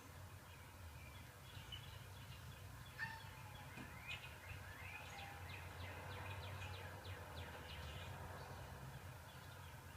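Faint wild birdsong, many quick chirps and twitters, played from a bird video for cats, over a steady low hum, with one sharp click about three seconds in.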